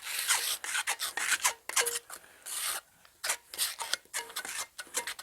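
Thin layer of mastic being spread and scraped over dry ShB8 fireclay brick faces: quick, irregular scraping strokes, some ending in a short squeak.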